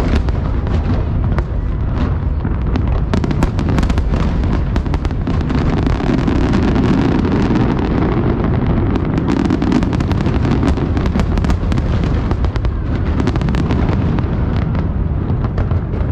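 Fireworks display in full barrage: a continuous rumble of booms with many sharp cracks and pops over it.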